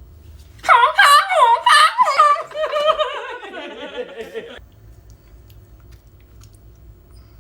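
A person making a high-pitched, warbling vocal sound, its pitch dipping up and down several times and then sliding downward before it cuts off abruptly.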